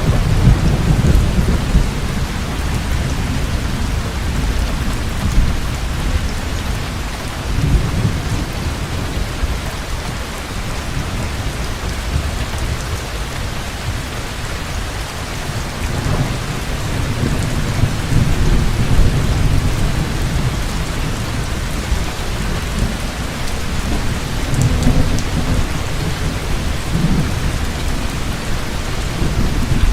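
Heavy rain falling steadily, with low rolling thunder rumbling underneath that swells at the start, about eight seconds in, and twice more in the second half.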